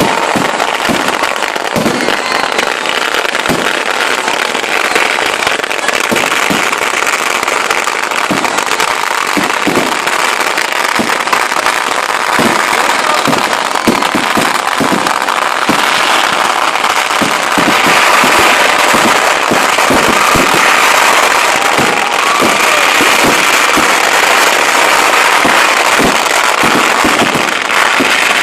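A festival fireworks display of low-intensity firecrackers: a dense, continuous run of crackling and rapid overlapping bangs. The barrage grows thicker and louder about two-thirds of the way through.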